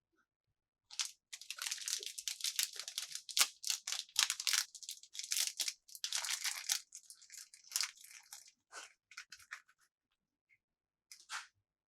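Plastic packaging crinkling and being torn open by hand: a dense run of crackles for about eight seconds, then a few scattered rustles and one short crackle near the end.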